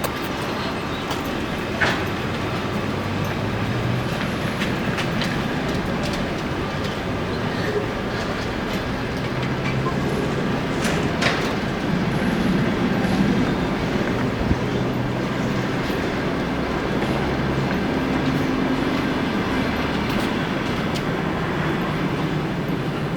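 A departing train running with a steady rumble, a low hum that shifts in pitch, and occasional sharp clicks from the wheels and rails.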